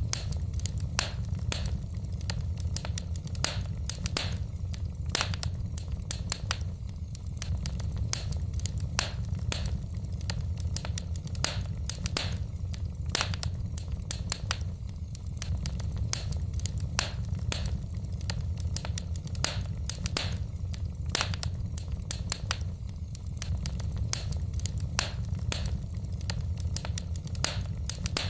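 Wood fire crackling in a fireplace: frequent, irregular sharp pops and snaps, several a second, over a steady low rumble.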